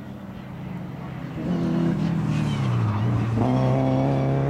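Alfa Romeo 145 hatchback's engine on track. It grows louder about a second and a half in, and its note falls as the car slows into a bend. From about three and a half seconds the note climbs again as the car accelerates out.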